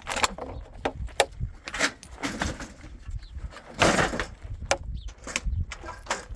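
Irregular wooden knocks, clicks and clatter of a plank door and boards being handled, with a louder scrape about four seconds in.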